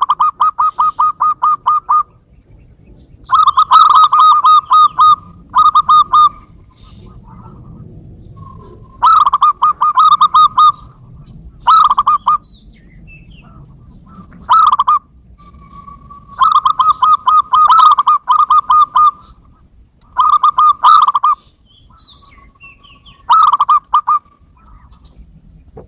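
Zebra dove (perkutut) cooing: loud bouts of rapid staccato notes, each bout lasting about half a second to two and a half seconds, repeated nine times with short gaps between.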